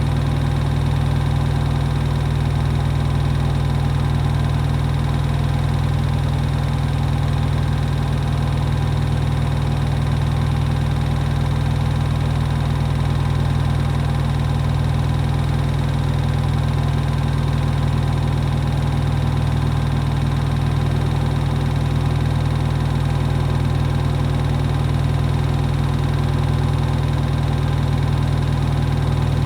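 Hoover HW411AMC washing machine in its final spin, drum and motor turning at a steady high speed with a constant deep hum.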